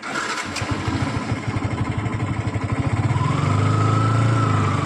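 Motorcycle engine starting up and idling, getting louder and steadier from about three seconds in.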